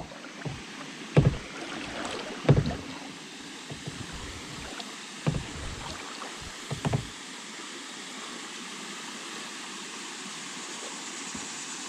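Kayak paddling on a river: a steady hiss of moving water with a few short low thumps of the paddle strokes, which stop about seven seconds in.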